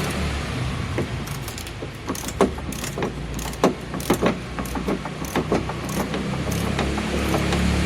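Irregular sharp clicks and clacks of hand tools and metal parts being worked on inside a car door, over a steady low hum that is louder near the start and end.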